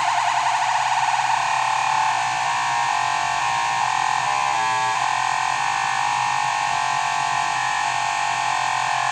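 Modular synthesizer lead drone: an FM oscillator run through distortion, buzzing steadily and harsh, its timbre shifting partway through as the FM is tuned to find a ratio harmonic with the bass note.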